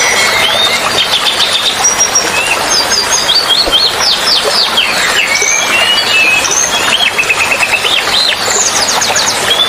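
Several small songbirds chirping and trilling in quick, overlapping calls over a steady hiss of running water.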